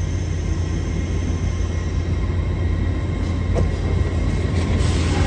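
LNER Azuma Class 801 electric train pulling slowly into the platform: a steady low hum with a faint high whine, growing a little louder as the coaches come alongside, with a couple of short clicks from the wheels near the end.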